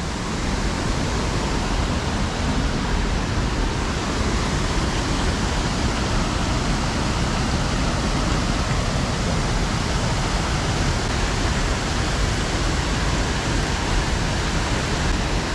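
Water rushing steadily over a creek spillway: a loud, even rushing noise with no break.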